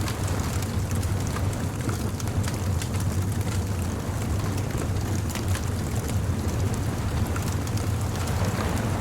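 Bonfire crackling, with scattered sharp pops over a steady low rumble.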